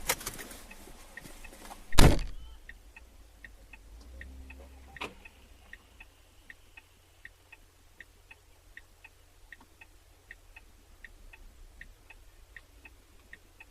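A loud crash impact about two seconds in, recorded from inside a car, with a smaller knock a few seconds later. A car's indicator relay then ticks steadily, about three clicks a second.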